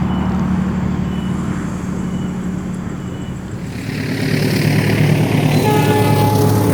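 Diesel-electric locomotive engine running under load as the train climbs a grade, a steady low drone. About four seconds in it grows louder and a hiss of wheels and track rises with it, and near the end a few thin steady tones join in.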